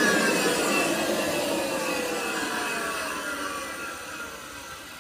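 Kirby 516 vacuum cleaner's motor and metal fan spinning down after a short run, its whine falling steadily in pitch and fading. The motor's bearings are worn and need replacing.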